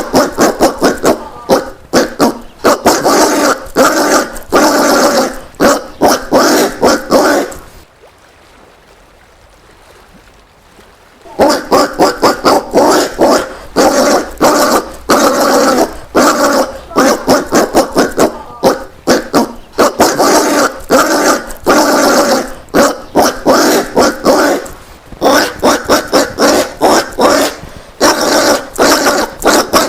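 Collared peccary calling in a rapid run of short, harsh barking grunts, several a second. The calls stop for about three seconds partway through, then resume.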